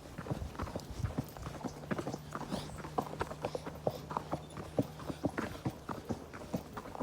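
Horse's hooves clip-clopping at a walk, an uneven run of several hoof falls a second.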